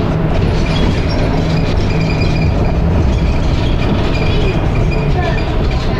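Dennis Arrow double-decker bus engine and drivetrain running steadily under way, heard from inside the bus as a low, even drone with rattles.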